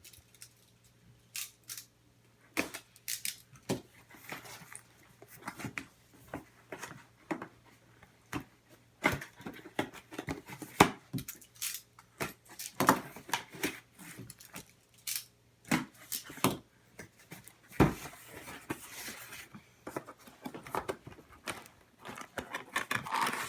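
Cardboard box and its packaging being opened and handled by hand: a long run of irregular sharp clicks, scrapes and rustles of cardboard and plastic.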